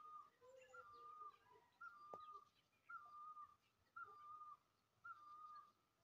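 Faint bird calls: one bird repeats a short whistled note about once a second, each note flicking up and then held level, with fainter chirps of other birds between.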